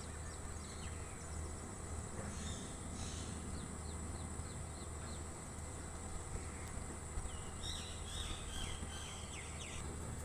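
Steady, high-pitched insect drone with clusters of short bird chirps about two and a half seconds in and again about eight seconds in, over a low steady hum.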